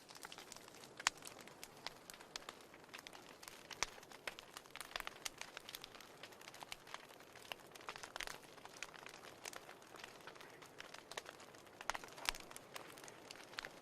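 Wood fire in a fireplace crackling: irregular sharp pops and snaps over a soft steady hiss, with a few louder pops about a second in and near the end.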